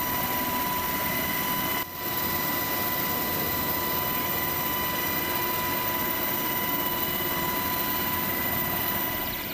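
Coast Guard rescue helicopter running steadily: a constant turbine whine over rotor and engine noise. There is a brief drop about two seconds in.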